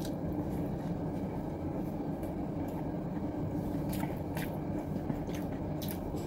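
A person chewing a mouthful of rice, with a few faint mouth clicks and smacks in the last couple of seconds, over a steady low hum of room noise.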